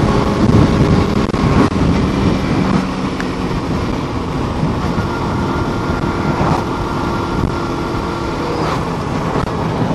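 Suzuki Inazuma GW250's 248 cc parallel-twin engine running under way, with heavy wind and road noise. Its pitch shifts in the first two seconds, then holds steady.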